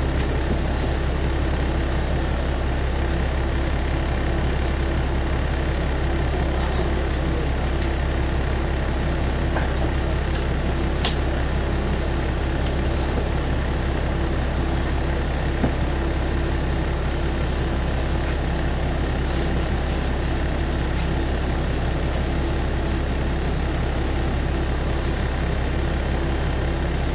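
Single-car diesel railcar's engine idling steadily while the train stands at a station waiting to pass an oncoming train, heard from inside the cabin as a constant low hum.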